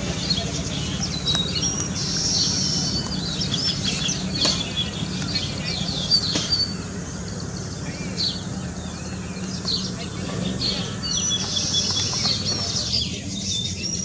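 Baya weavers chattering: dense runs of short, high, squeaky chirps and buzzy notes, with a lull about halfway through before they pick up again, over a steady low hum.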